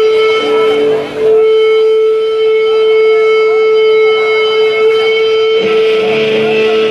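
Live rock music: one long, steady held instrumental note with a bright stack of overtones, briefly broken a little after a second in, with lower notes from the band joining near the end.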